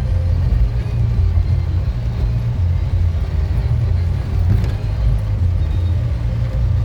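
Heavy rain falling, heard mostly as a loud, uneven low rumble, with a faint click about four and a half seconds in.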